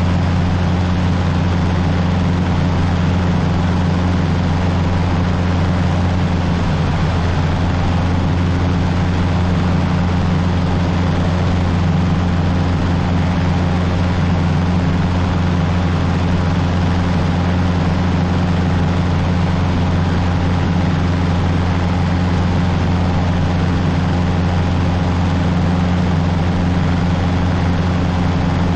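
Cessna 150's four-cylinder Continental O-200 engine and propeller droning steadily in flight, with no change in pitch or level.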